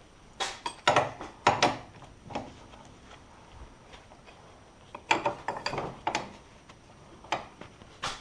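Hand tools and metal parts clanking and clicking as they are handled, in two quick clusters of sharp knocks with a couple of single knocks near the end.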